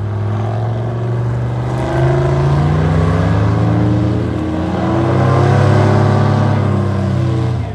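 Airboat engine and propeller running hard, the pitch rising and falling as the engine is revved. The sound swells twice, then drops off suddenly near the end.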